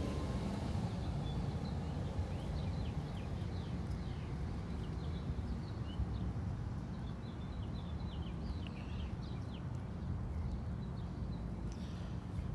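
Outdoor ambience of small birds chirping in many short, high, quick notes over a steady low rumble.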